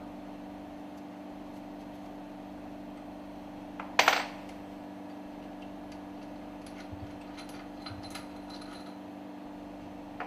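Metal-on-metal clank of hand tools and screws as the two screws are taken out of a fuel pump puncture valve housing: one sharp ringing clank about four seconds in, then a few light clicks a few seconds later, over a steady low hum.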